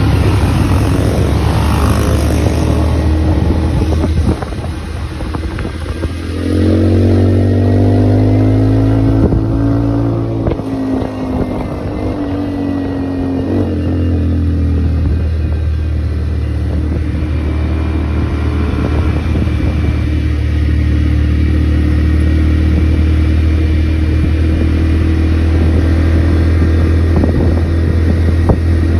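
ATV engine running under way, dropping off briefly about four seconds in, then revving up about six seconds in and easing back down to a steady run.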